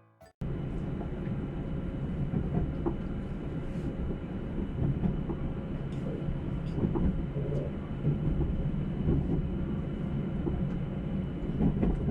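The Twilight Express Mizukaze cruise train running along the line: a steady low rumble of wheels on rail with scattered faint clicks and a thin steady hum, starting abruptly about half a second in.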